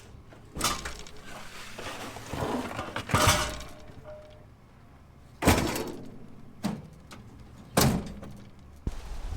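A series of loud crashes and clatters, like hard objects being thrown or dropped and breaking: four big hits a couple of seconds apart, each with a short rattle after it. A steady rushing noise starts near the end.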